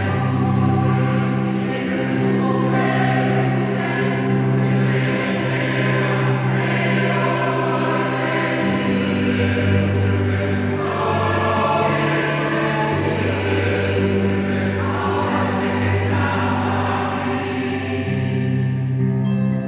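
Choir singing sustained chords in several parts.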